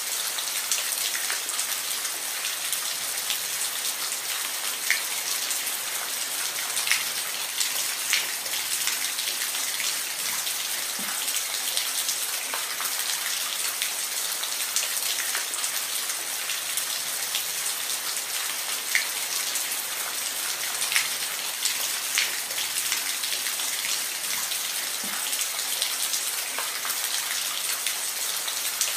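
Steady rain falling, a constant hiss with scattered individual drops ticking distinctly through it.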